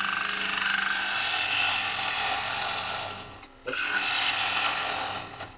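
Bowl gouge cutting the inside of a spinning cherry bowl on a Laguna Revo 1836 lathe, with a steady shearing noise of wood being taken off. The cut breaks off briefly about three and a half seconds in, then a second, shorter pass follows.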